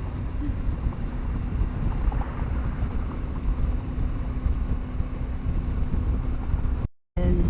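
Motorcycle on the move: steady wind and road noise buffeting the rider's microphone over an even engine hum. The sound cuts out for a split second near the end.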